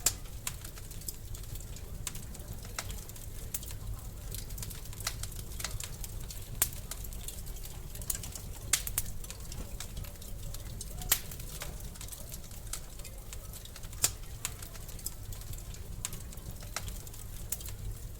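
Wood fire in a fireplace crackling, with irregular sharp pops, a few louder than the rest, over a steady low rumble of the burning.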